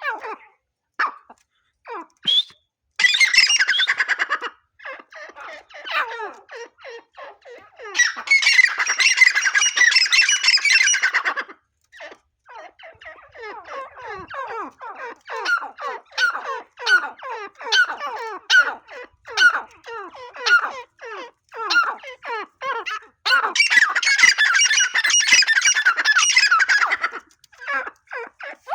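Grey francolin calling: a steady run of short falling notes, broken by three loud, harsh bursts of calling a few seconds long, about three, eight and twenty-four seconds in.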